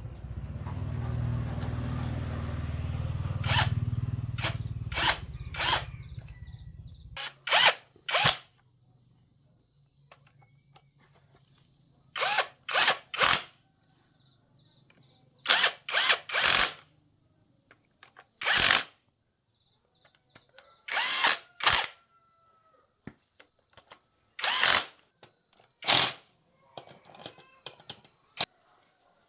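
A power tool running in short bursts, about twenty of them, mostly in quick pairs and threes. A low steady hum runs underneath for the first seven seconds or so, then stops suddenly.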